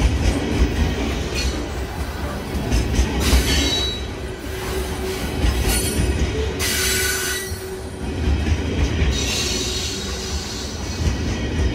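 Freight train of loaded wood-chip hopper cars rolling past close by, a steady low rolling noise from the wheels on the rails. Bursts of high-pitched wheel squeal come and go, loudest about seven seconds in, as the last cars go by.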